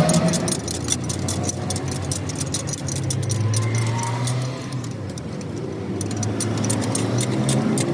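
A motor running steadily, with many quick light metallic clicks and clinks over it.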